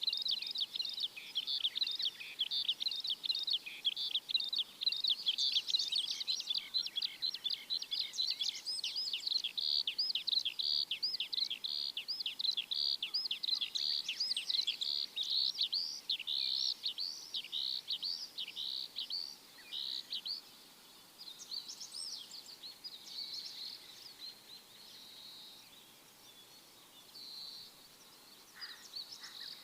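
Small birds chirping in a dense chorus of rapid, high chirps that thins out after about twenty seconds.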